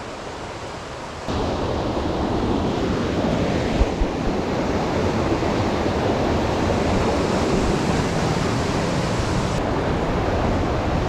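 Steady rush of a waterfall's falling water, which jumps suddenly louder a little over a second in.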